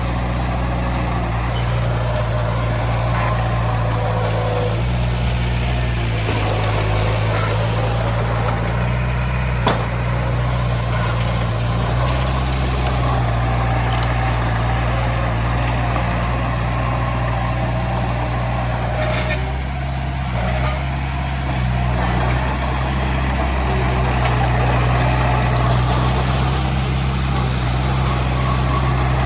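Heavy diesel earthmoving machinery running steadily, a low engine drone that shifts slightly in pitch now and then, with a few faint clinks.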